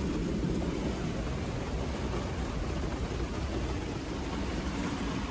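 Heavy rain pouring down in a thunderstorm, a steady unbroken noise.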